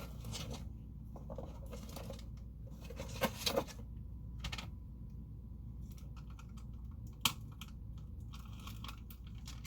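Plastic hummus tub being opened: the lid and the peel-off safety seal handled and torn back, with scattered scratchy tearing and crinkling and a few sharp plastic clicks, the loudest about three seconds in and again about seven seconds in.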